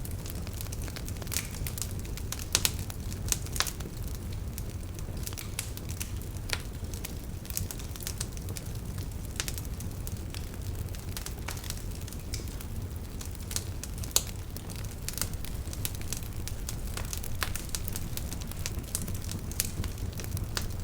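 Wood fire burning in a fireplace: a steady low rumble of flames with frequent irregular crackles and snaps.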